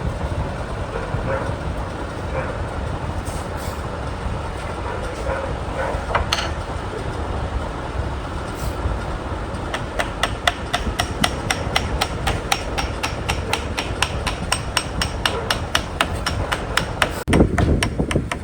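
Hammer blows, woodwork being hammered: scattered knocks at first, then from about ten seconds in a steady run of about three strikes a second. Under them is a steady low rumble, and a louder low rumble comes shortly before the end.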